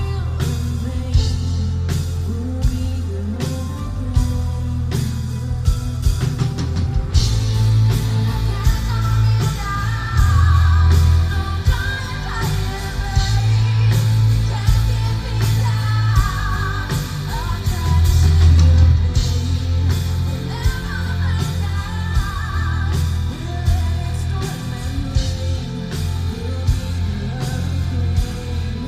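Live symphonic metal band playing loudly: drums, heavy bass and guitars under a female lead singer. The cymbals get brighter a few seconds in, and the sung lines come in over the band.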